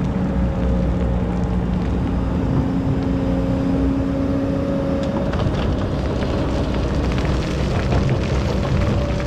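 Excavator's diesel engine running steadily, with a whining tone that stops about five seconds in. After that come scraping and many small knocks, typical of the bucket working sand.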